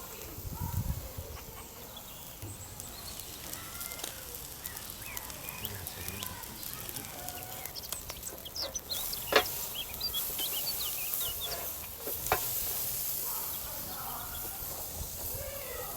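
Small birds chirping on and off, with two sharp knocks, one a little after nine seconds in and one about twelve seconds in, and a high hiss that sets in after about nine seconds.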